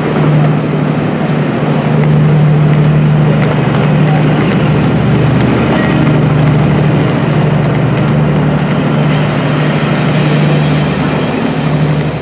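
A rake of passenger coaches rolling out under a station's arched trainshed: wheels rumbling on the rails over a steady low hum.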